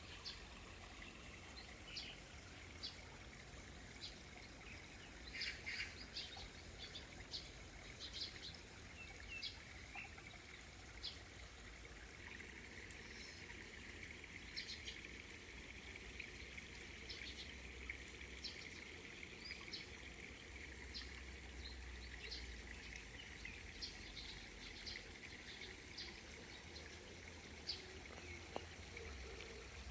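Birds chirping in short, scattered calls over a steady high insect drone, with a faint low rumble underneath.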